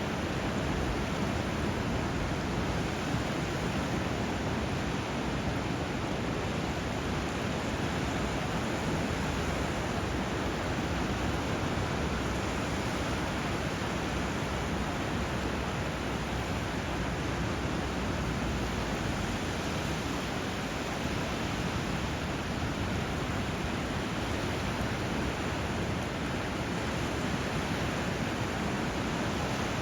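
Steady rushing of flowing water, an even hiss that holds level without swells.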